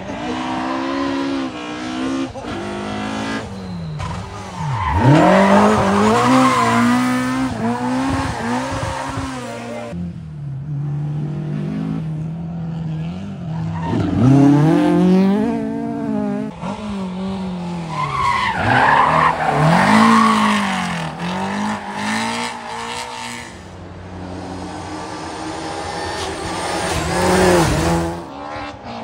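Rally car engines at high revs, dropping sharply and climbing again several times as the cars slide, with tyres squealing. The sound changes abruptly a few times, as if different cars follow one another.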